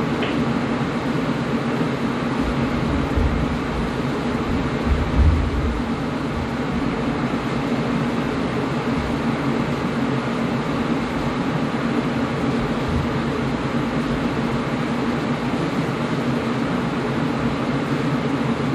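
Air conditioner running steadily: an even rushing hiss with a low hum, and a couple of brief low rumbles about three and five seconds in.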